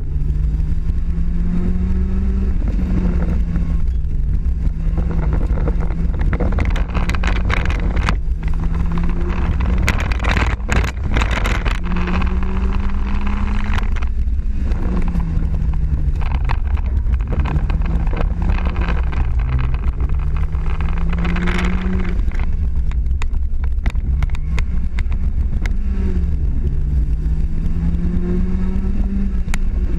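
Zastava 750's rear-mounted 850 cc four-cylinder engine, fitted with a sport camshaft and a 30 mm carburettor, heard from inside the small cabin. It is driven hard, its note climbing and dropping again and again every couple of seconds.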